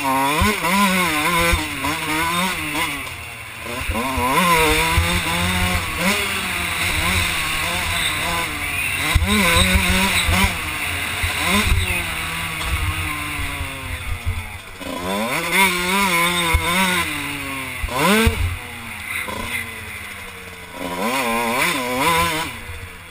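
Kawasaki KX125 two-stroke single-cylinder motocross engine being ridden hard, revving up and dropping off again and again as the throttle is opened and closed. Wind rushes and buffets over the helmet-mounted microphone. The engine eases off briefly near the end.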